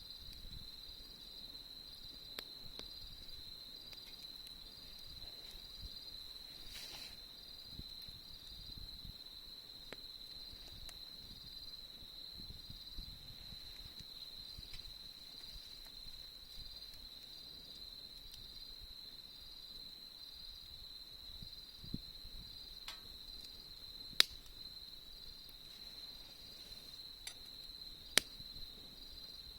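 Autumn crickets trilling in a steady, high chorus with a faint pulsing beat. A campfire pops sharply a few times, loudest twice near the end.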